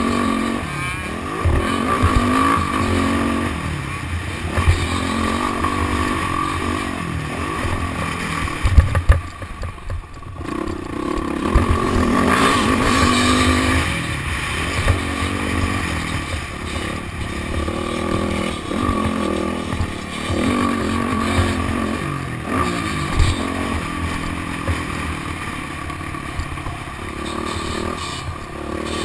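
Motocross dirt bike engine revving up and down as it is ridden around the track, with rattling and knocks from the ride. A few sharp knocks come about a third of the way in, followed by a brief dip in engine sound.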